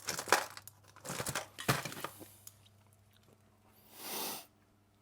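Rustling and crinkling handling noise with a few sharp clicks over the first two seconds, then a short breathy whoosh about four seconds in.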